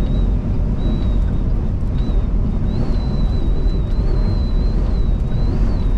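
Semi-truck driving on the highway in high wind, heard from the cab: a steady low rumble of engine, road and wind buffeting. A thin high whistle runs over it, wavering slightly in pitch.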